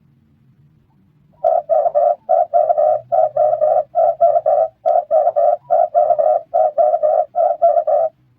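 Red turtle dove cooing: a rapid run of rough, repeated coos in groups of three or four. It starts about a second and a half in and stops shortly before the end.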